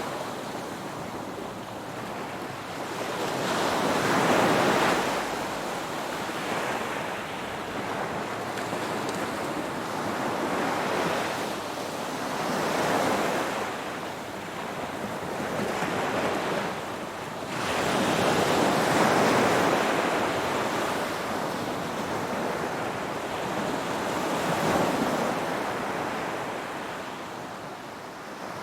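Ocean waves breaking and washing onto shore, coming in surges every few seconds with a continuous wash between them, a little quieter near the end.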